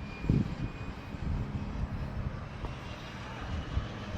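Airplane engine droning steadily overhead, with low bumps of wind on the microphone.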